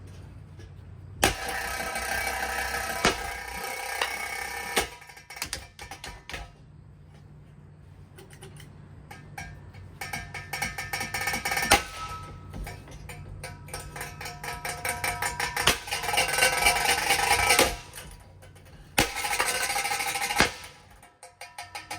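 Broken Hampton Bay Waterton ceiling fan running, rattling and clattering loudly in several long stretches with quieter gaps between, its motor humming underneath.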